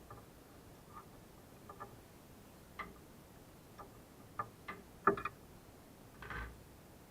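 Irregular clicks and light metallic taps of hand tools, a spark plug wrench and spanner, working at a motorcycle engine's spark plug. There are about a dozen, unevenly spaced, with the loudest pair a little past five seconds in and a short rattle near the end.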